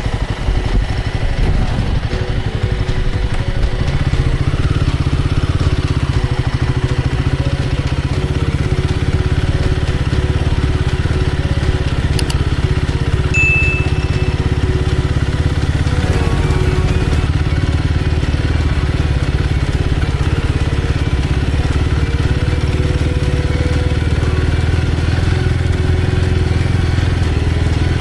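Royal Enfield Guerrilla 450's single-cylinder engine running steadily while the motorcycle is ridden.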